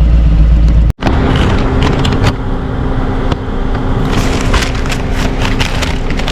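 Motorcycle riding at speed, heard through a rider-mounted microphone: a steady engine hum under wind noise with frequent crackles of wind buffeting the mic. The sound drops out for a moment about a second in and comes back different, as at an edit.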